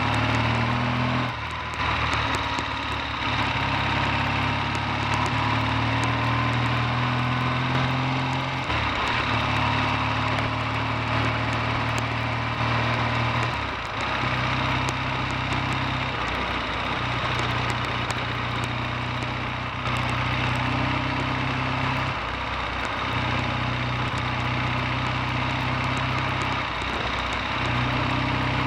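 Triumph T140V's 750 cc parallel-twin engine running on a test ride, its steady low note broken by short dips and shifts in pitch every few seconds, as with throttle changes and gear changes.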